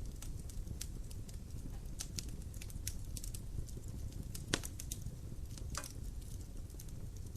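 Fireplace fire crackling: irregular sharp pops and snaps over a low steady rumble, with one louder pop about four and a half seconds in.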